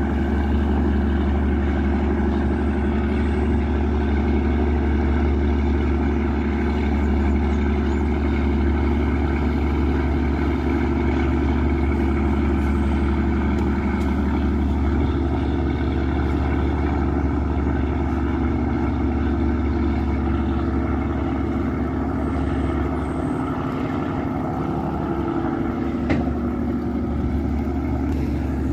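Yanmar 829 hp marine diesel engine of a river passenger boat running steadily under way, a constant low drone.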